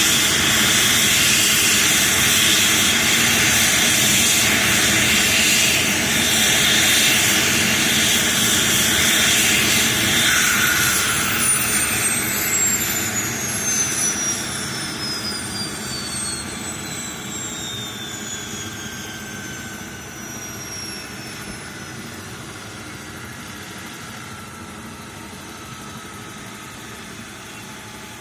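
Airbus Helicopters H135's turbines and rotor running loud and steady, then from about eleven seconds in a high turbine whine slides steadily down in pitch while the whole sound fades: the engines spooling down at shutdown after landing.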